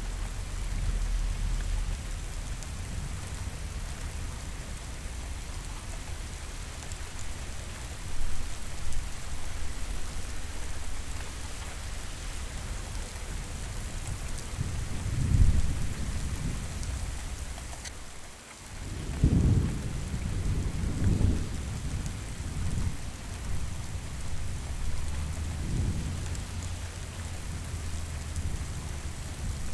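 Thunderstorm: steady rain hiss with low rolls of thunder swelling up several times, the strongest around the middle and just after a brief lull in the rain.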